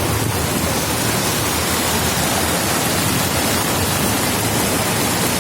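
Heavy rain pouring down with running water, a steady even hiss.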